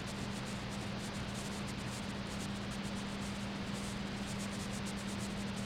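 Steady hiss with a constant low electrical hum, and no distinct events.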